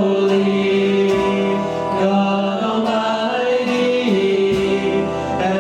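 Worship band playing a slow praise song: guitar and held sung or instrumental notes over steady accompaniment.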